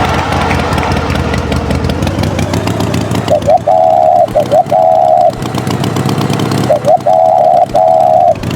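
Tractor engine sound effect running with a fast, knocking rumble. After about three seconds a repeating pattern of pitched tones comes in, twice over: two short rising chirps followed by two longer steady tones.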